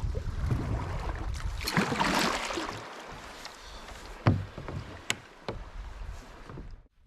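Kayak paddle strokes splashing in the water, two swells about three seconds apart, followed by a loud knock and a couple of sharp clicks on the kayak.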